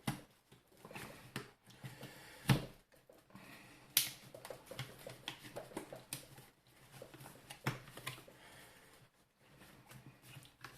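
Scattered clicks, taps and scraping of plastic as a tool is worked into the seam of a steam iron's plastic housing to pry it open, with two sharper knocks a few seconds in.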